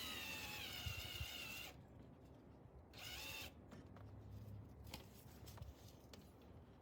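Electric drill running with its whine slowly dropping in pitch, stopping about two seconds in. A short second burst follows a little after three seconds, then faint clicks.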